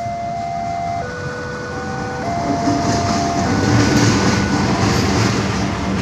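A train passing, its rumble and rail clatter growing loud about two and a half seconds in. Under it, a level-crossing warning signal plays a tune of steady electronic tones, which is soon buried by the train.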